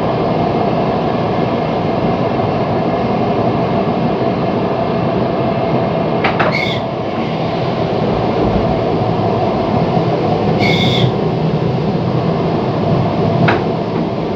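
Interior running noise of an ER9T electric multiple unit under way: a steady rumble and rush of wheels on track with a steady tone underneath. Two brief high squeals come about six and eleven seconds in, and a sharp click near the end.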